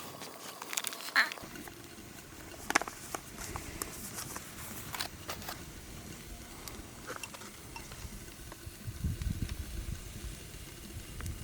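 Scattered light clicks and snaps with soft rustling, and a low rustle about nine seconds in.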